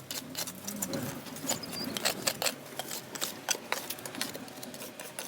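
A hand tool scraping old, crumbling grout out of patio joints: quick, irregular scratches and clicks of grit and mortar fragments.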